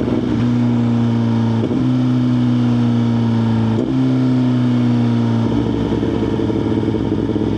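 Suzuki GSX-R1000's inline-four engine running at a steady, droning note while riding, broken briefly twice, at about two and four seconds in. Some five and a half seconds in, the note drops lower and turns rougher.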